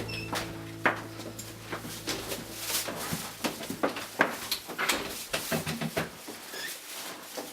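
Household clatter in a kitchen: irregular knocks and clinks of dishes, drawers and cupboard doors as dinner is being got ready.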